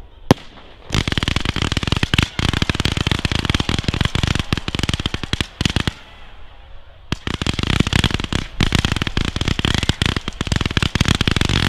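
Firework barrage firing fans of coloured comets: one sharp bang just after the start, then a long run of rapid-fire shots, a lull of about a second, and a second rapid-fire run.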